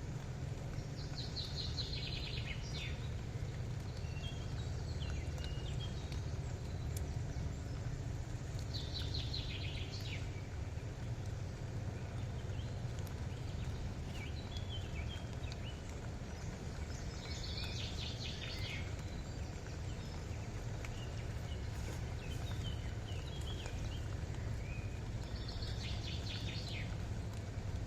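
A songbird sings the same short falling, trilled phrase four times, about eight seconds apart, with a few softer chirps between, over a steady low outdoor rumble.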